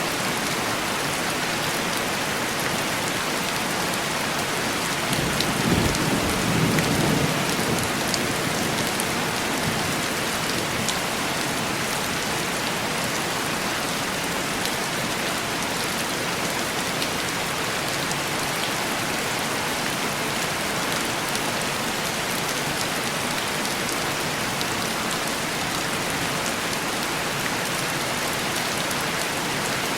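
Heavy rain pattering steadily on window glass, with a low roll of thunder swelling about five seconds in and fading away a few seconds later.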